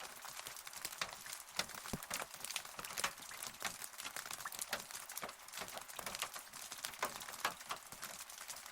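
Rain falling: a steady hiss with many irregular, sharp taps of single drops hitting a surface close by.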